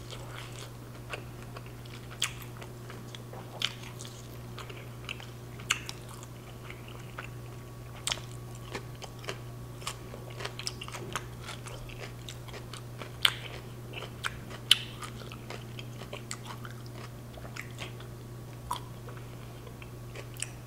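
Close-miked chewing of a carne asada street taco: wet mouth sounds with scattered crunchy clicks, a few louder ones in the second half. A steady low hum runs underneath.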